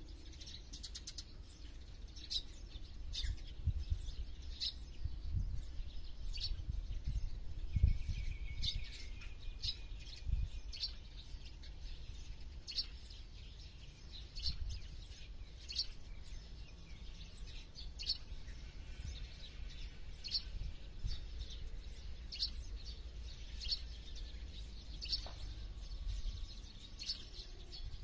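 Small birds chirping in short, sharp, repeated notes, several calls a second at times, over an uneven low rumble.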